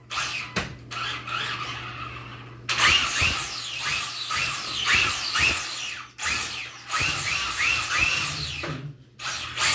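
Sensored brushless electric motor of a Castle Creations-powered RC drag car on a 2S LiPo, whining in a series of throttle bursts, its pitch rising and falling many times with short breaks in between. The tires spin and skate on the hardwood floor under the power.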